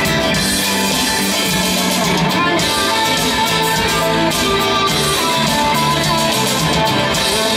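Live band music: guitar and drum kit playing an instrumental passage with no singing.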